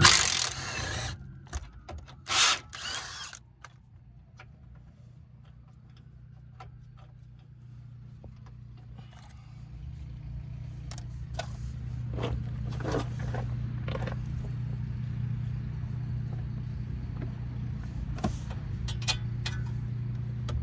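An impact wrench running in three short bursts in the first few seconds, loosening the control arm's nuts and bolts. Then scattered clicks and knocks of hand tools on metal, over a steady low hum that grows louder from about ten seconds in.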